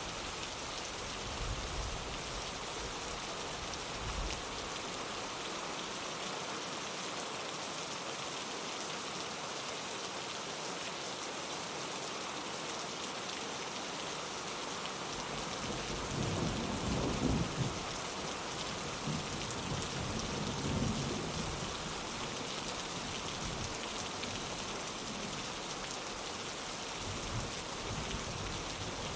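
Steady rain falling on a window. A low rumble of thunder swells about halfway through, and a second, shorter rumble follows a few seconds later.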